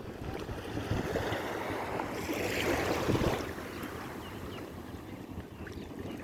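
Wind rumbling on the microphone over the wash of water, swelling to a louder rush about two to three seconds in and then settling.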